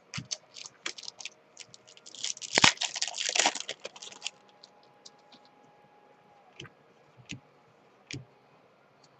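Trading cards and pack wrappers being handled. There is a dense crinkling rustle from about two to four seconds in, with scattered light clicks before it and a few single clicks after.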